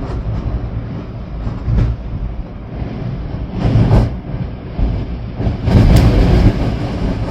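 Storm wind gusting hard, buffeting the microphone with a deep rumble. Gusts swell about two seconds in, again at four seconds, and strongest around six seconds.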